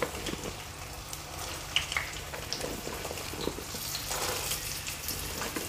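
Sliced bitter gourd frying in hot oil in a kadai: a soft, steady sizzle with scattered small crackles as more slices are added by hand.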